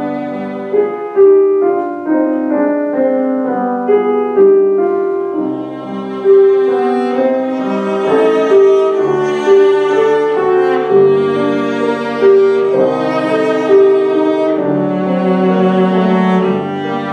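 A bowed string instrument plays a sustained, singing melody over piano accompaniment in a classical piece, with the piano's chords striking at regular intervals.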